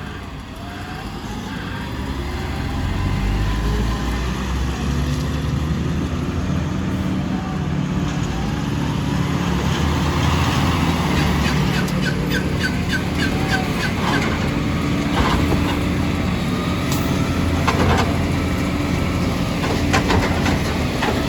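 Garbage truck's diesel engine running and revving, with a whine that rises and falls, and a run of quick ticks followed by several knocks and clatters in the second half.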